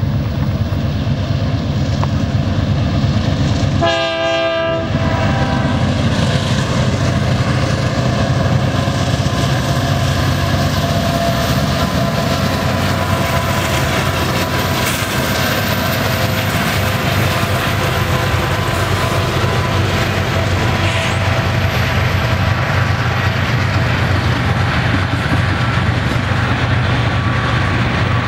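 Union Pacific diesel freight locomotives and double-stack container cars passing close by: a steady engine drone and the rumble of steel wheels on the rails. A short horn blast sounds about four seconds in.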